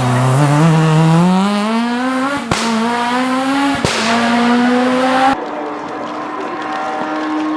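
Super 1600 rally car's high-revving 1.6-litre four-cylinder engine accelerating flat out, its pitch climbing, with two sharp cracks about two and a half and four seconds in. After an abrupt cut a little past halfway, another rally car's engine holds a steadier, quieter note.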